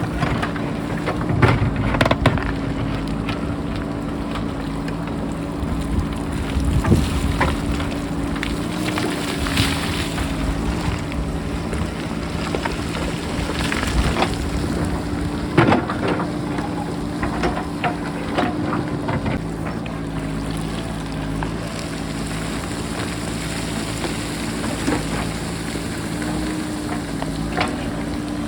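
JCB backhoe loader's diesel engine running steadily, with scattered clattering knocks of rock against the bucket and rocks rolling down the slope. Wind buffets the microphone throughout.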